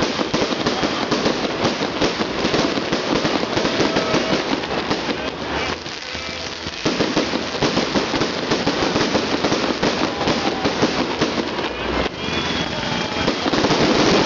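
Festive fireworks salute crackling: a dense run of rapid sharp pops and crackles, easing off briefly about six seconds in, then resuming.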